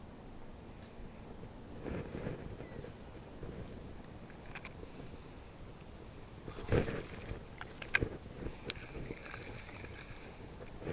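Outdoor riverside ambience with a steady high hiss, a low thump about seven seconds in, and a few sharp clicks shortly after.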